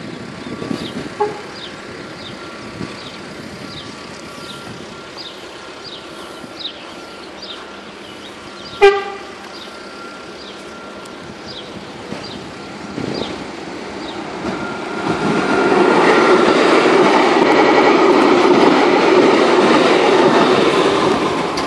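Metro train gives one short horn blast about nine seconds in. From about fifteen seconds the train's running noise swells up loudly as it passes close by.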